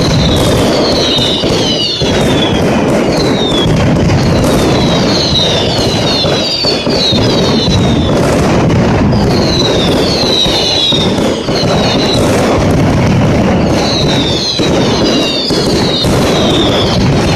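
Mascletà firecracker barrage: a dense, continuous rattle of bangs and cracks, with many short descending whistles cutting through over and over.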